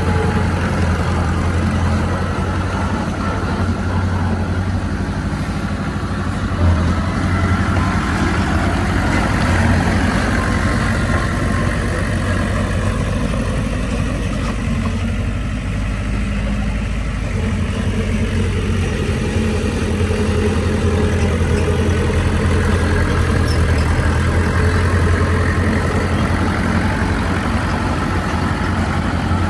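Heavy diesel engine of earthmoving machinery running steadily, its note rising and falling a little, with a brief knock about seven seconds in.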